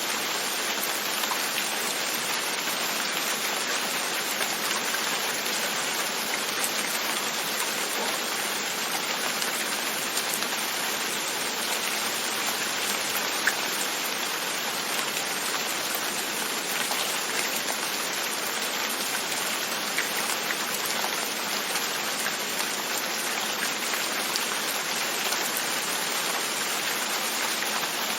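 Steady rain with scattered drops tapping, gently pattering on a window.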